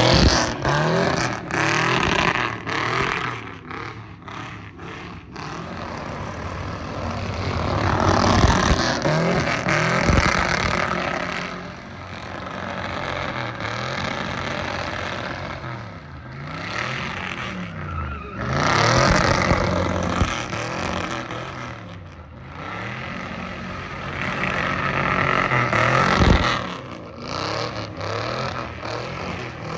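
Car engine revving up and down again and again, rising and falling in pitch, with loud swells of engine and tyre noise several times.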